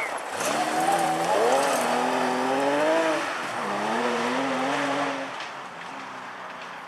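Porsche rally car's flat-six engine accelerating hard, its pitch rising through a gear, dropping briefly at an upshift about three seconds in, then rising again. The sound fades away after about five seconds.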